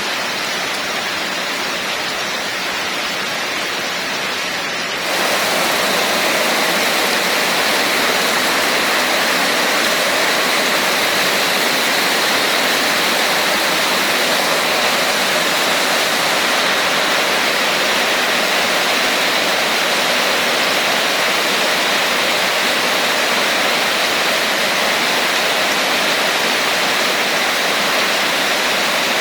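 Heavy, steady rain falling as a dense, even hiss. About five seconds in it suddenly gets louder and brighter, then continues unchanged.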